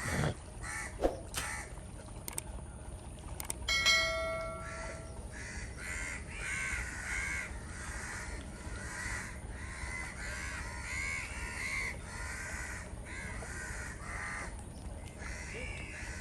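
Birds calling over and over, many short calls one after another. A single ringing tone sounds for about a second about four seconds in.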